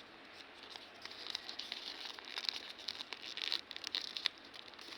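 A sheet of paper being folded and creased by hand, crinkling and rustling in an irregular run of small crackles.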